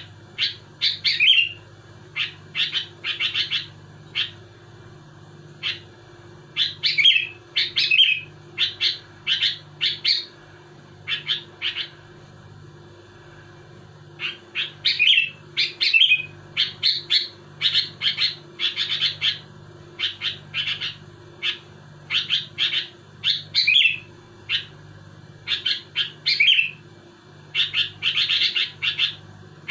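Sooty-headed bulbul singing vigorously in rapid runs of short, clear notes, some sliding down in pitch, broken by short pauses. A faint steady hum runs underneath.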